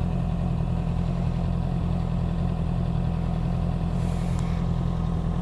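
Honda CB650R's inline-four engine idling steadily through an aftermarket IXIL Hyperlow XL exhaust, its pitch unchanging.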